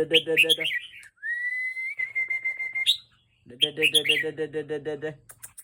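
A caged bird giving rapid chattering calls, about six a second with high chirps over them, in two bursts, excited by a person's long steady whistle between the bursts.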